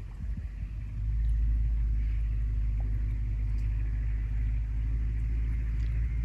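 A steady low rumble sets in about a second in and holds, after a gusty stretch of wind on the microphone.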